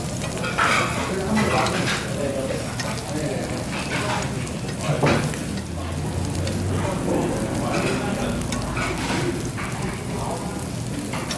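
Pork ribs sizzling and crackling on a hot tabletop grill plate.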